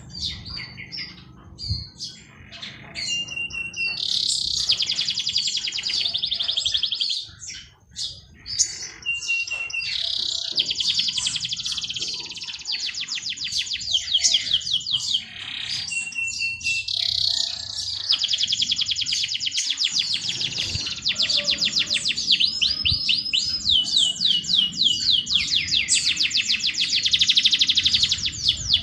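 A songbird singing long, very fast trills several seconds each, some phrases opening with a short held whistle note, with scattered chirps between.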